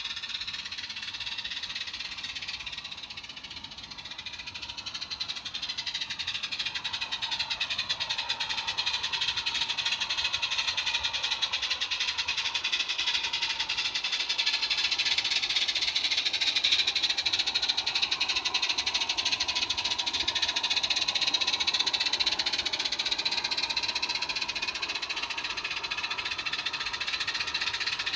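Small-scale model railway locomotive running, a whine with many overtones that dips and rises in pitch over rapid fine ticking, growing louder about five seconds in.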